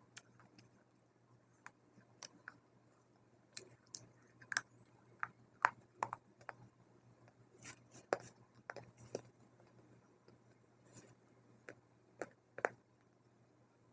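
Dry multani mitti (fuller's earth clay) crunching in irregular sharp cracks and snaps, most of them bunched in the middle and a couple near the end, over a faint low hum.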